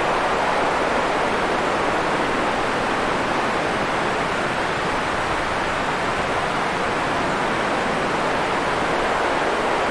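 Steady, even noise with no events, most of its energy in the middle range: a continuous pink-noise-like hiss, like rushing water.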